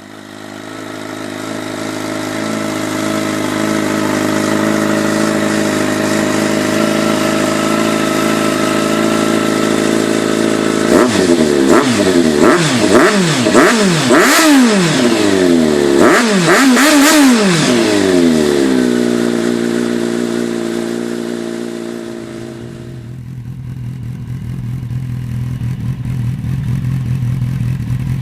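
Kawasaki motorcycle engine through an SC-Project aftermarket exhaust, idling steadily, then revved in a series of quick throttle blips about eleven seconds in before settling back to idle. Near the end another engine idles with a lower note.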